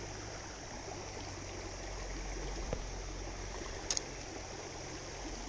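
Creek water running steadily over a small waterfall. A couple of short clicks come through about halfway through.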